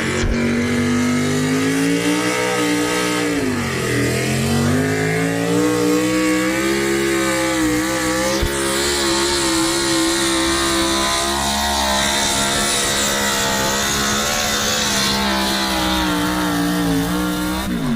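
A pulling vehicle's engine at full throttle down the track. The pitch dips briefly a few seconds in, climbs back and holds high, then drops off near the end. A high hiss rides over it for several seconds in the middle.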